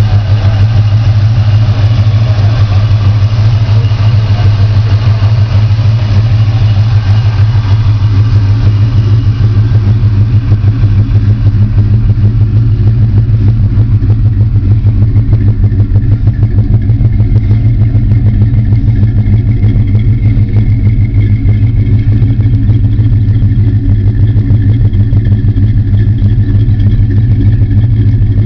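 Chevy 350 small-block V8 with an aftermarket cam idling steadily through dual exhaust with Flowmaster mufflers.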